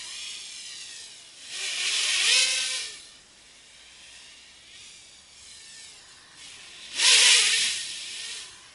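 Small 200 mm quadcopter's electric motors and propellers whirring in flight, swelling loud twice, about one and a half seconds in and again about seven seconds in, and fading lower in between.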